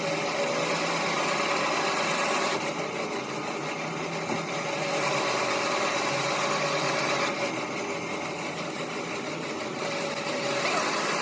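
A machine running steadily, with a constant mechanical whir whose tone shifts slightly every few seconds.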